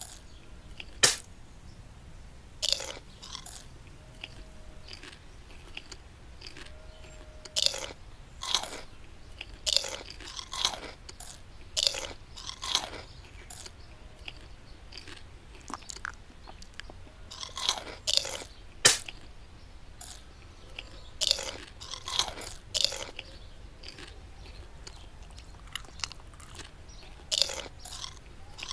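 A dog biting and chewing raw cauliflower: irregular crisp crunches that come in clusters, with pauses of a second or two between bouts.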